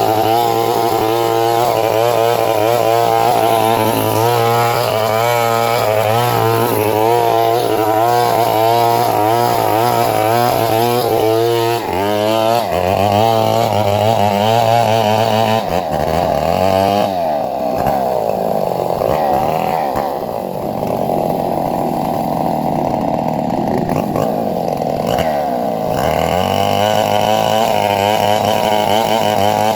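A two-stroke chainsaw running continuously while working on a coconut palm, its engine note wavering up and down. About halfway through the engine note shifts and runs differently for about ten seconds before returning to the earlier pattern.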